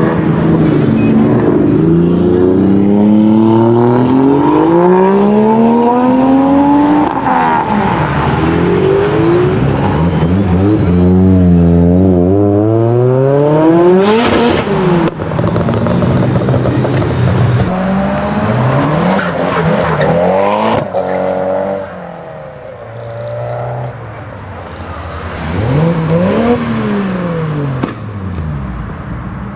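Nissan Silvia drift car's engine revving up and dropping off over and over while drifting, with tyre squeal at times. The sound fades noticeably after about two-thirds of the way through, with one last rev near the end.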